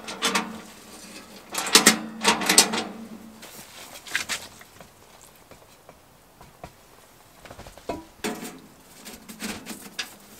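Clanking and scraping of a steel wood stove and its stovepipe being shifted into position. The knocks come in groups: a few at the start, the loudest cluster about two seconds in, one near four seconds, and another run near the end.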